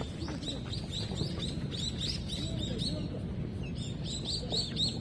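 Sneakers squeaking on a hard indoor court floor during play: many short, high squeaks in quick succession, thickest in the second half, over the low rumble of running feet and the hall.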